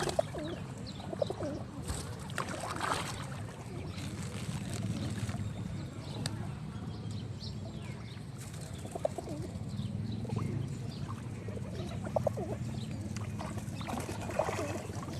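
Pigeons cooing, several short calls scattered through, with a few sharp clicks over a steady low hum.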